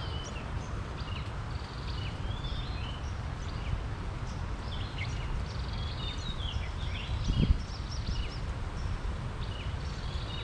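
Many birds chirping and whistling in short, quick calls over a steady low rumble, with one thump about three quarters of the way through.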